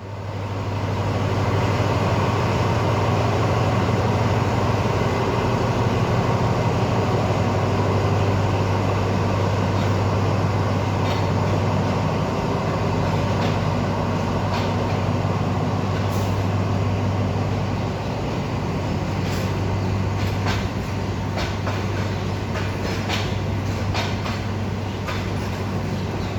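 Diesel train running: a steady low drone with a strong hum, joined from about halfway through by scattered sharp clicks and knocks.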